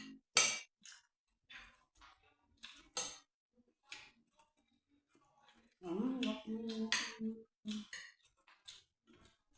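Close-up eating sounds of rice and stew: short wet mouth clicks and smacks scattered throughout, with a hummed "mm" of enjoyment about six seconds in.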